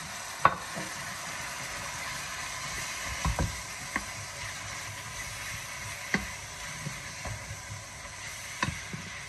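Chopped boiled beef tripe sizzling in a pot with fried onion, garlic, ginger and coriander, a steady hiss, while a wooden spoon stirs it, scraping and knocking against the pot every few seconds.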